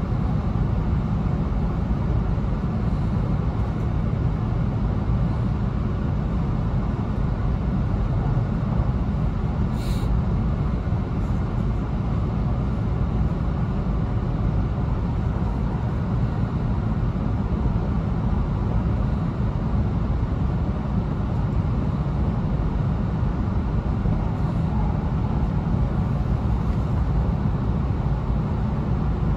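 Running noise heard inside an E2 series Shinkansen car: a steady low rumble of the train moving along the line, with one brief click about ten seconds in.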